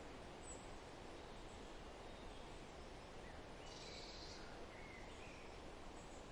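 Quiet forest ambience: a steady soft rushing noise with a few faint bird chirps in the middle. About four seconds in there is a short, high, buzzy trill.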